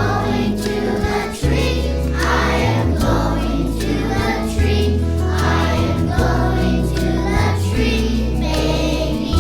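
A group of young children singing together as a choir, over instrumental accompaniment with long, held bass notes.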